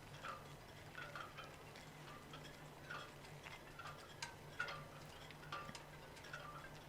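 Faint, uneven ticking, one to three short clicks a second, over a low steady hum.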